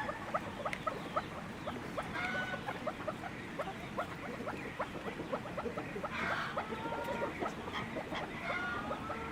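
A flock of small poultry birds chirping and peeping: many quick short chirps, several a second, with a few longer calls now and then.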